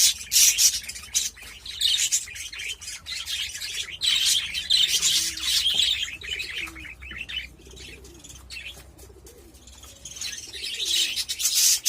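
Budgerigars chattering and warbling in quick, scratchy bursts, easing off about two-thirds of the way through and picking up again near the end.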